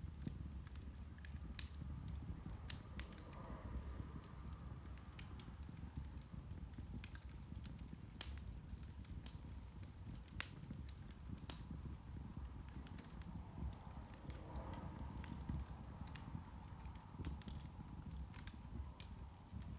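Irish turf (peat) fire crackling: irregular sharp pops and clicks over a low, steady rumble.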